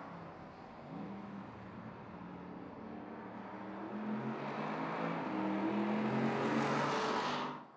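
Porsche Panamera 4S E-Hybrid's twin-turbo V6 engine running as the car drives on track, its note growing steadily louder, then cutting off suddenly near the end.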